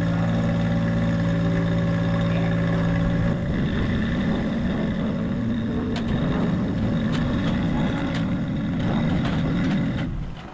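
Heavy-equipment engine running: a steady idle at first, turning rougher and busier about three seconds in, then dropping away near the end.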